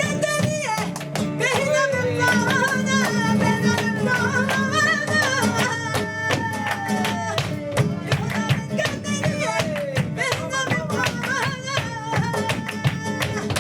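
Live flamenco tangos: a singer's wavering, gliding cante over flamenco guitar, with many sharp percussive clicks throughout.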